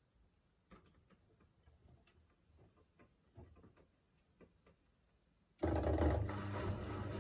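Miele W3985 washing machine mid-cycle: faint scattered ticks and soft knocks from the drum and water, then, about five and a half seconds in, a steady mechanical hum starts suddenly and runs on loudly.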